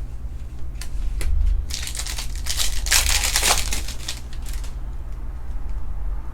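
Trading-card pack wrapper crinkling and tearing as the pack is torn open, in two noisy bursts about two and three seconds in, with a few light clicks of cards being handled.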